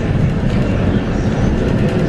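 Scania K230UB bus with a 5-cylinder Scania DC9 diesel, heard from on board: steady engine and road rumble while it runs.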